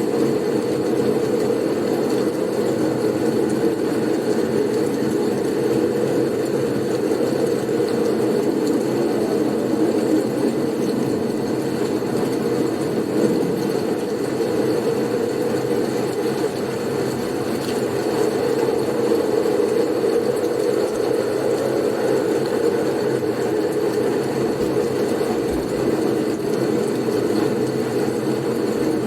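Blizzard soundscape: a steady, low rushing wind noise with no gusts or breaks, and a faint high whistle held steady above it.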